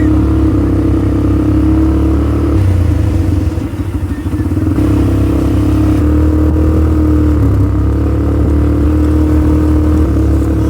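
ATV engine running steadily under way, easing off briefly about three and a half seconds in and then picking up again.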